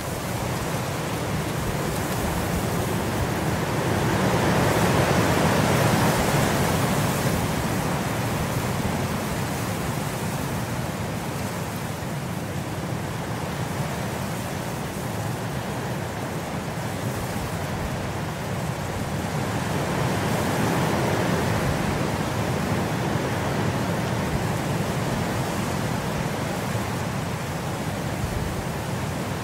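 Steady rain ambience, an even hiss that swells a little louder twice.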